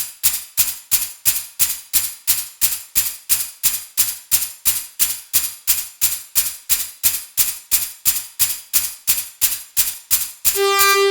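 Synthesized bell-like tones from a Make Noise Spectraphon modular synthesizer: bright metallic hits at an even pulse of about three a second, each decaying quickly. About ten and a half seconds in, a held tone comes in and its pitch steps downward.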